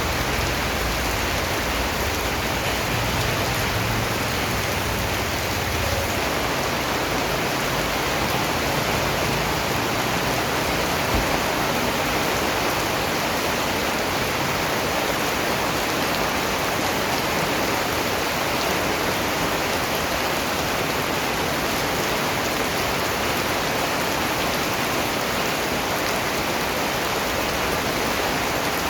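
Steady rain falling, an even hiss of many drops with no change in level. A low rumble sits under it for the first several seconds.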